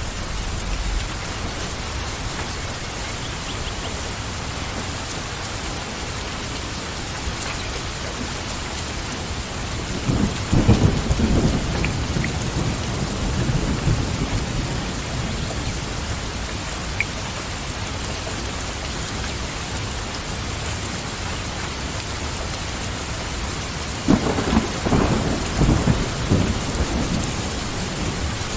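Steady rain falling, with thunder rumbling twice: once about a third of the way in and again near the end.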